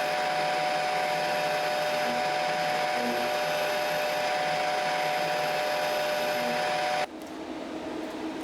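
A power tool's motor running steadily with a constant whine, cutting off suddenly about seven seconds in.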